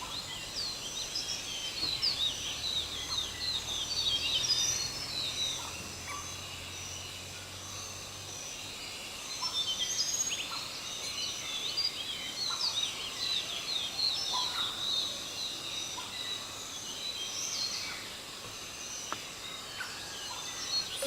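A chorus of many birds chirping and calling over one another, dense and overlapping high chirps and quick sweeps throughout, with a few lower calls. A faint low hum underneath stops about eight seconds in.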